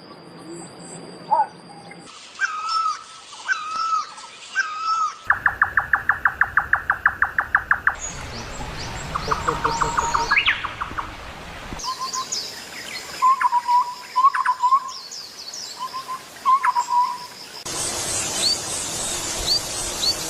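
Several different birds calling in turn, in short spliced clips that change abruptly every few seconds: repeated chirps, a fast rattling trill, and short whistled notes.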